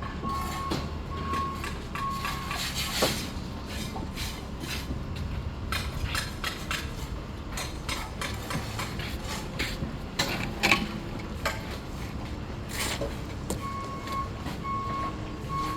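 Job-site sound: a machine's reversing alarm beeps steadily at the start and starts again near the end, over a running engine's low rumble, with sharp knocks and taps scattered throughout.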